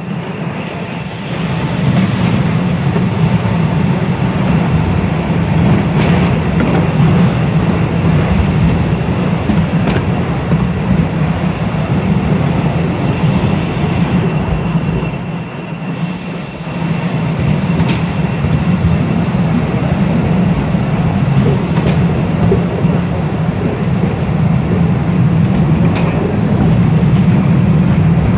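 Postojna Cave's narrow-gauge electric train running along its rails, heard from an open carriage: a steady rumble of wheels on track with an occasional sharp click. The rumble eases briefly about halfway through, then picks up again.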